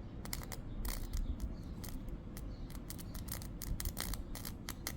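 Electrical arcing from a 250 W audio amplifier's output shorted through pencil graphite: irregular sharp crackles and snaps, several a second, over a steady low drone. The arcing is melting the connectors.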